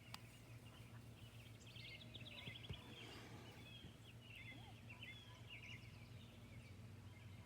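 Near silence with faint bird chirping in the background: quick twittering notes, busiest through the middle, over a steady low hum.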